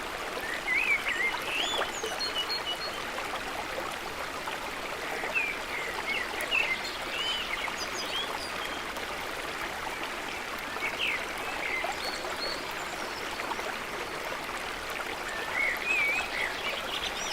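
Steady rush of flowing water like a stream, with songbirds chirping in short bursts of quick rising and falling notes, near the start, in the middle, and again near the end.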